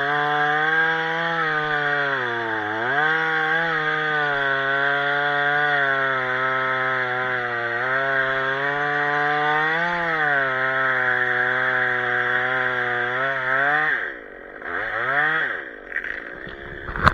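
Chainsaw running at high revs while cutting wood, its pitch sagging a couple of times under load. About fourteen seconds in it drops off, gives one short rev, and a sharp knock follows near the end.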